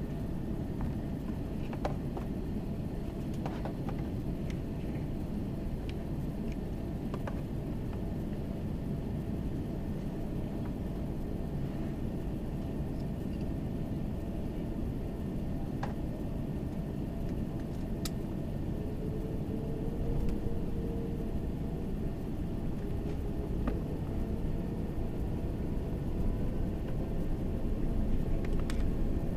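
Cabin noise inside an Airbus A380 with Engine Alliance engines: a steady low rumble of the airliner on the ground, with a few light clicks and rattles. In the last ten seconds a faint engine whine slowly rises in pitch and the noise grows louder.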